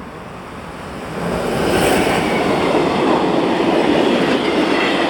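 Freight train passing close by: the noise of the train on the rails builds over the first second and a half, then stays loud and steady.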